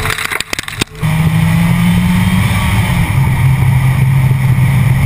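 Car engine running at road speed, picked up by a camera mounted low on the car's body. The first second is rough, buffeting wind noise. After that comes a steady engine drone whose note drops a little in pitch about two to three seconds in.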